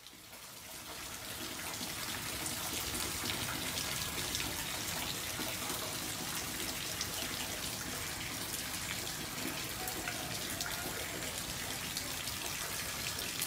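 Steady rain falling, an even hiss with scattered drips, fading in over the first couple of seconds.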